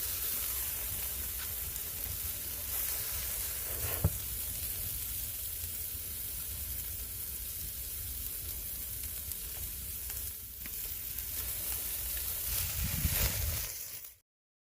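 Lamb ribs sizzling steadily on a grill over a wood fire, with one sharp crack about four seconds in. The sound cuts off abruptly shortly before the end.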